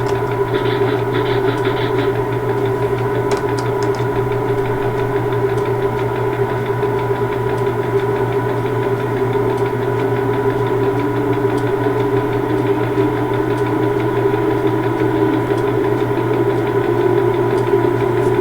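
Railway locomotive running steadily close by: a continuous low mechanical drone with a steady mid-pitched hum over it. A second, lower tone joins about ten seconds in.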